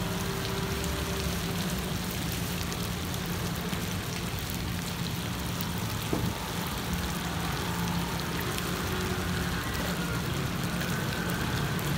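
Pan-fried stuffed buns sizzling in oil in a large iron frying pan: a steady frying hiss over a low hum, with a single click of the metal tongs about six seconds in.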